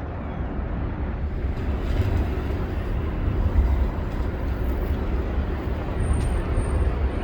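Steady low rumble of city traffic outdoors.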